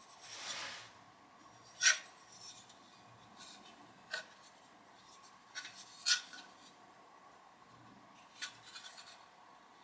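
Hand metalwork on small metal parts: one rasping scrape in the first second, then a handful of sharp metallic clicks and taps spaced a second or two apart.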